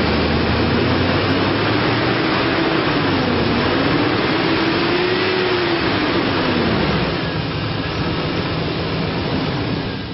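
A 2003 Chevrolet Silverado 1500 HD's 6.0-litre V8 engine running, with a tone that rises and falls through the middle. About seven seconds in, it gets quieter.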